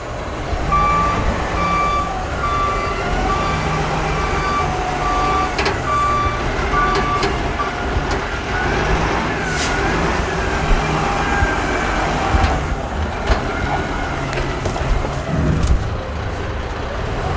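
Reversing alarm beeping at an even pace, about one and a half beeps a second, over the steady rumble of a heavy vehicle engine; the beeping stops about seven seconds in while the engine keeps running with a wavering whine above it.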